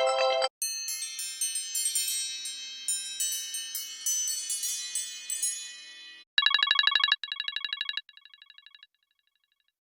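Synthesized iPad ringtone: a cascade of high, tinkling chime notes that fades away over about five seconds. Then a second tone sound follows, a rapidly pulsing high tone played in three bursts, each softer than the last.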